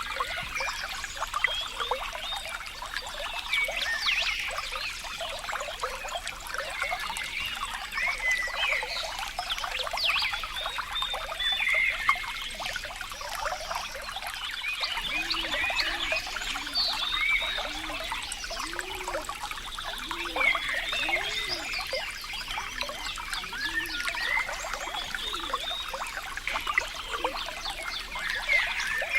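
Water trickling and bubbling, a steady babble of small splashes and gurgles. Around the middle comes a run of low, short notes, about one a second.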